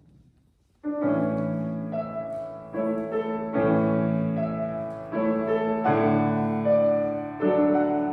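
Piano music starts suddenly about a second in, playing slow sustained chords that change roughly once a second.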